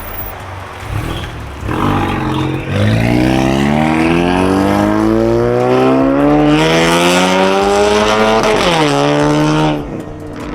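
A car engine accelerating hard: a loud engine note climbs steadily in pitch for about six seconds, dips once near the end, and then drops away suddenly.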